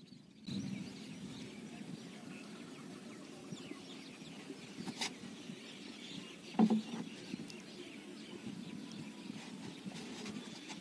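Birds calling over steady outdoor background noise. A single sharp knock comes about halfway through, and one louder, lower call about two-thirds of the way in.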